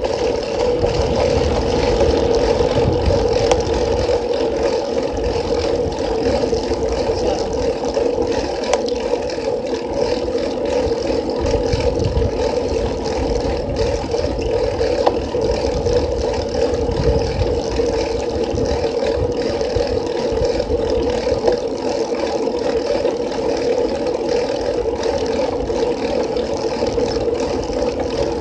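Wind buffeting and road noise from a moving bicycle, picked up by a phone zip-tied to the handlebars, with a steady hum and gusty low rumble throughout.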